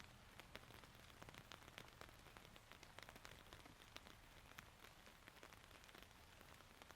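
Faint rain falling, with many separate drops ticking irregularly over a soft hiss.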